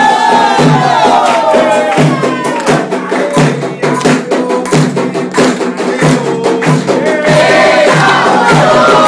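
Candomblé ritual music: voices singing a chant together over fast, dense hand percussion. The singing fades back after about two seconds, leaving the percussion, and comes in again near the end.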